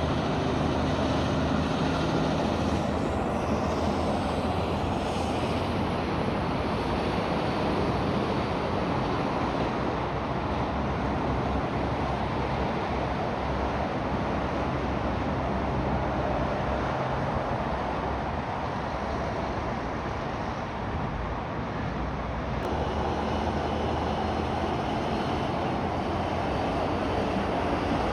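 Heavy trucks and road traffic driving past, a steady mix of diesel engine and tyre noise. The sound changes abruptly near the end.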